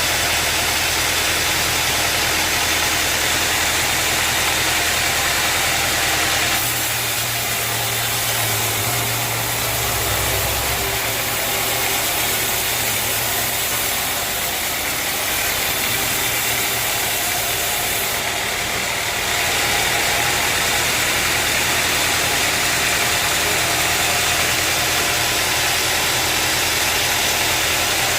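Sawmill machinery running steadily: an engine with a loud, even hiss of noise over it. The sound changes slightly about six seconds in and again near twenty seconds.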